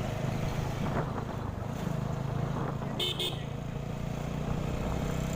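Motorcycle engine running steadily while riding. About three seconds in, a horn gives one short, high toot.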